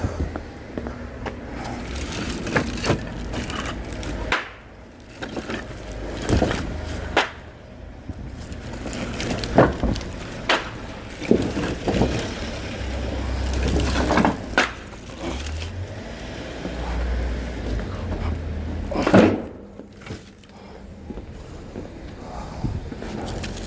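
Irregular knocks and clatter, as of objects being handled and set down, with a strong thump about 19 seconds in, over a low rumble.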